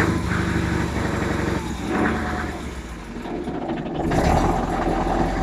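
Scania 140 truck's V8 diesel engine running steadily, dipping a little and then louder again after about four seconds.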